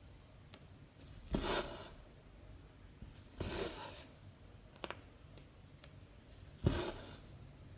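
Cotton embroidery thread drawn through 14-count cross-stitch fabric three times, each pull a short swish that starts sharply, with a few faint ticks of the needle between.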